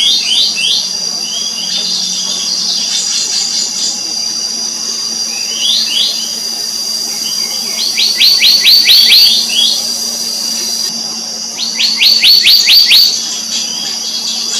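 Black-naped monarch calling: short whistled notes that slur downward, given singly early on and then in two fast runs of about eight notes, about eight and twelve seconds in. A steady high-pitched insect drone runs underneath.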